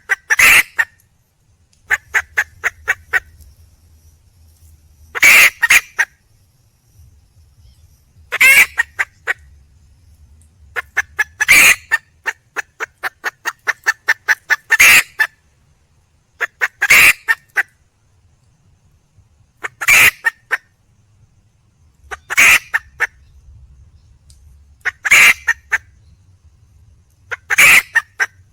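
Red junglefowl hen calling for a male: a loud, harsh call every two to three seconds, with quick runs of short, rapid clucks in between.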